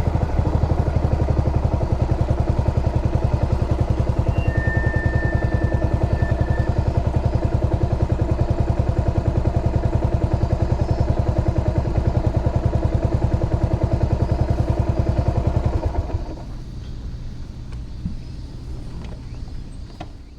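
Yamaha SR400's carbureted single-cylinder four-stroke engine idling with an even, fast pulse, then switched off about four seconds before the end, leaving a quieter low background.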